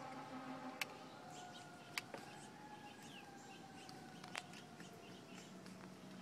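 Quiet outdoor ambience: birds chirping faintly over a low steady drone. Three sharp clicks sound about a second in, two seconds in and four seconds in.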